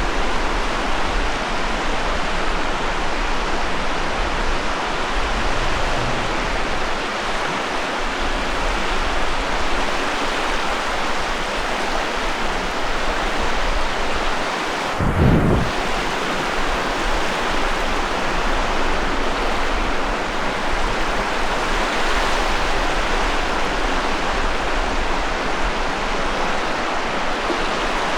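Ocean surf washing on a sandy beach, a steady wash of noise, with a brief low thump about halfway through.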